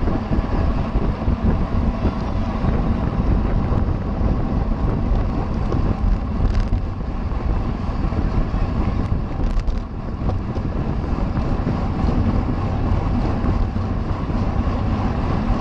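Wind rushing over the microphone of a racing bicycle's onboard camera at race speed: a steady, loud rumble.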